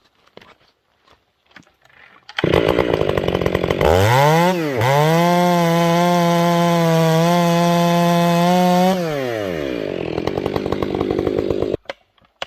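Large professional two-stroke chainsaw comes in about two seconds in, revs up and holds a steady high speed for about five seconds, likely buried in a cut. It then drops back to idle and is shut off abruptly near the end.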